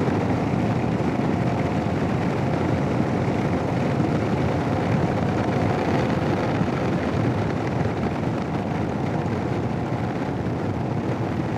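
Heavy wind noise buffeting the helmet-mounted intercom microphone on a moving Royal Enfield Himalayan motorcycle, with the bike's single-cylinder engine and road noise underneath. It is a steady, dense rush. The helmet is unprotected because the small windscreen gives little cover.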